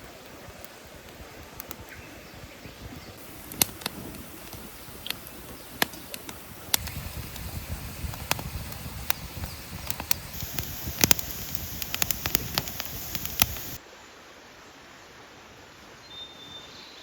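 Wood campfire crackling, with irregular sharp pops and snaps from the burning wood. The pops come thickest and loudest a few seconds before the end.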